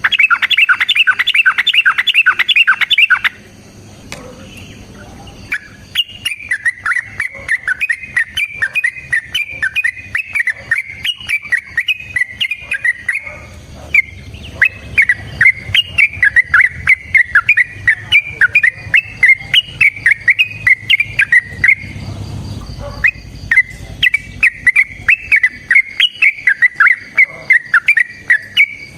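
Yellow-vented bulbul (trucukan) song: a dense burst of rapid calls for the first three seconds, then after a short pause long runs of quick chattering notes that stop briefly twice.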